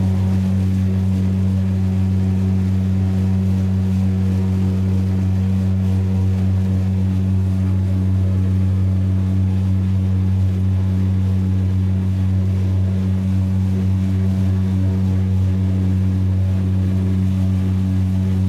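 An engine running at a constant speed: a loud, steady low hum that does not change.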